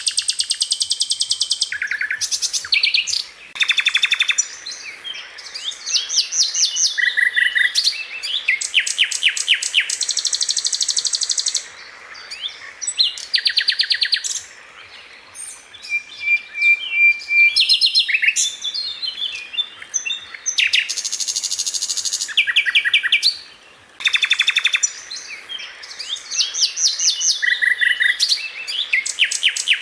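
Sikatan londo flycatcher singing in rapid, tightly packed bursts of fast repeated high notes, each burst lasting about a second and broken by short pauses. This is the fast, tight 'tembakan' delivery that such recordings are used to teach to songbirds.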